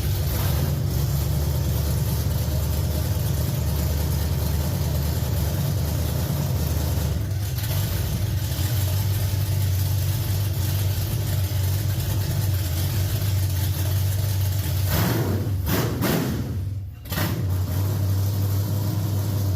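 360 cubic-inch V8 in a dirt late model race car running on a two-barrel carburettor at its first start-up, a steady loud rumble that sounds like a plow truck. About three seconds before the end the sound briefly drops away, then picks up again.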